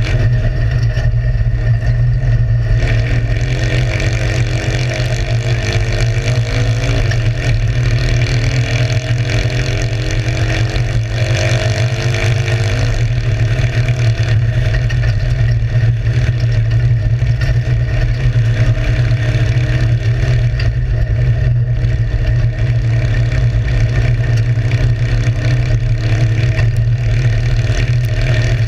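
Citroën 2CV's air-cooled flat-twin engine heard from inside the open cockpit, revving hard under load. Its pitch climbs and drops back several times as the car is driven through the gears, over a steady heavy low rumble.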